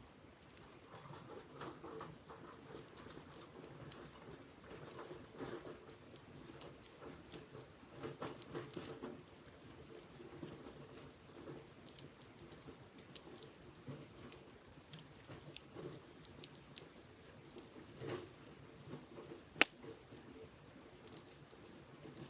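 Wood campfire crackling, with small irregular pops throughout and one sharp, loud pop about twenty seconds in.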